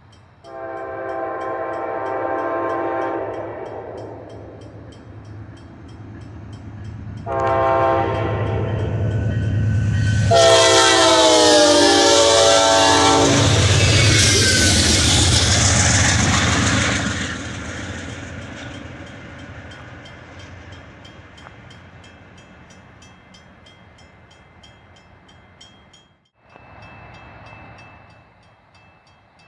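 Amtrak diesel passenger train, led by a GE P42DC locomotive, sounding three long horn blasts at a grade crossing, the last one dropping in pitch as it goes by. It then passes close with a loud rush and rail clatter that slowly fades. Near the end the sound cuts off suddenly to a fainter rumble.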